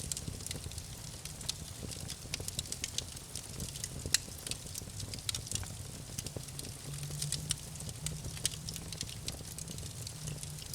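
Campfire crackling: burning wood pops and snaps in sharp, irregular clicks over a low steady rumble, with one louder pop about four seconds in.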